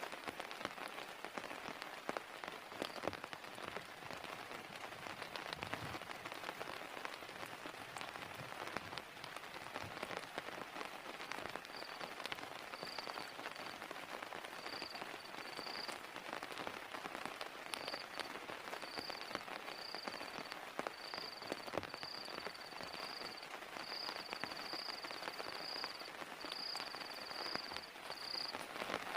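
Steady rain falling, with many sharp individual drop impacts. From about halfway through, a high, thin chirp repeats in short pulses about once a second.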